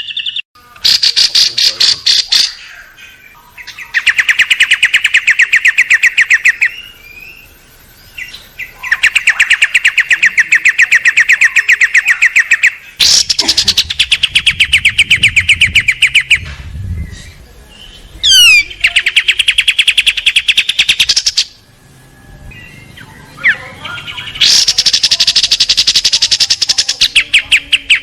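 Small songbird singing fast, harsh rattling phrases of rapidly repeated notes. There are about six bursts of two to four seconds each with short pauses between, and a brief whistle that sweeps up and down about eighteen seconds in.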